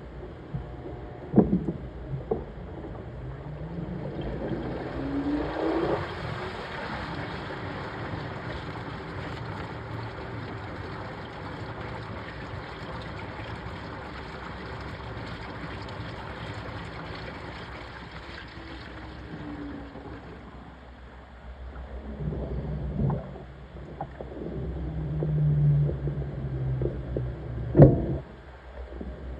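Washing machine's spin drum speeding up with a rising whine, spinning steadily with a watery churning sound, then slowing with a falling whine. A few knocks and clicks follow near the end.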